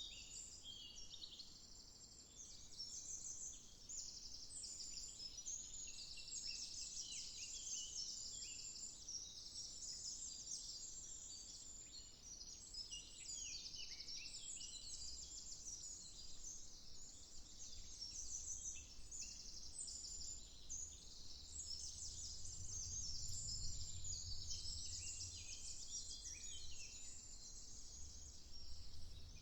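Woodland birdsong: many small birds chirping and trilling over one another, high-pitched and continuous, with a faint low rumble rising about three-quarters of the way through.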